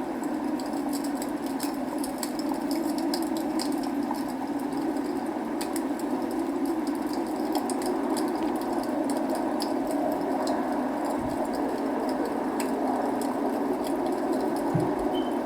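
Log fire crackling, with scattered sharp pops and ticks, over a steady rush of rain.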